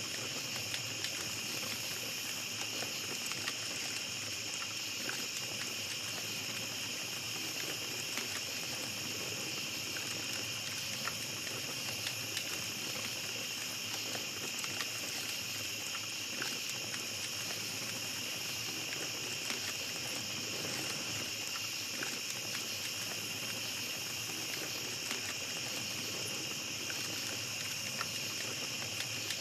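A small campfire crackling with scattered light pops, over a steady high chorus of night insects.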